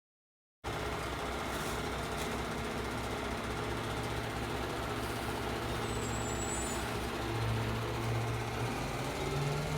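Rear-loader garbage truck engine running, starting abruptly after a short silence; near the end the engine speeds up, its pitch rising.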